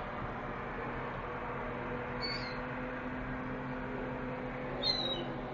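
Gulls calling: two short, high, falling mewing cries, one about two seconds in and one near the end, over a steady background hum and rushing noise.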